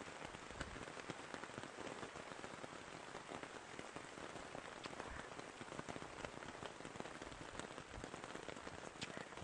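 Rain falling steadily on leaves and wet ground: a constant hiss thick with the ticks of single drops.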